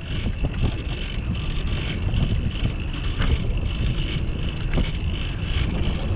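Wind rumbling on the microphone of a camera mounted on a moving bicycle, with steady tyre and road noise and a few small rattles.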